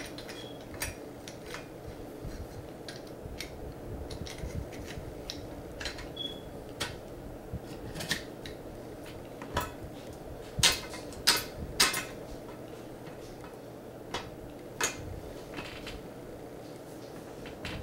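Metal parts of a balance bike's headset clinking and knocking irregularly as the steering neck is fitted through the head-tube bearings, with a run of louder knocks about eleven seconds in. A faint steady hum lies underneath.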